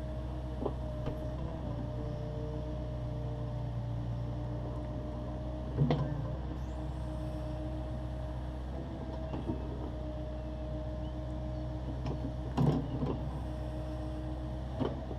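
Takeuchi TB260 midi excavator's engine running steadily, with a few short knocks and clanks, the loudest about six seconds in and again near thirteen seconds.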